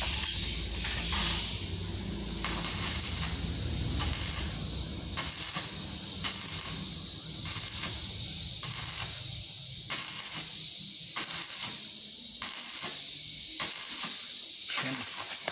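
Electric arc welding: a steady high hiss and crackle of the arc, with brief breaks every second or so. A low hum fades out about five seconds in.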